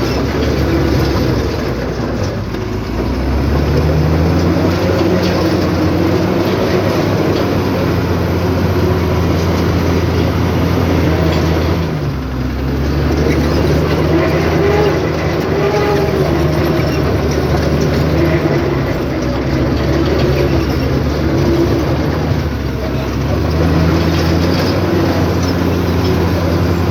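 Heavy diesel engine of earthmoving equipment running loud, its revs rising and easing off several times as it works under load.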